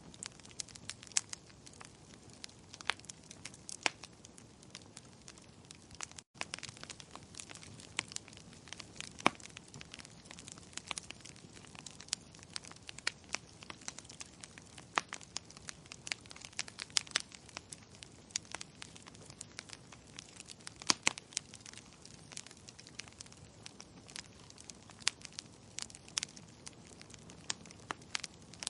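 Wood fire crackling, with irregular sharp pops and snaps of varying loudness over a soft, steady hiss.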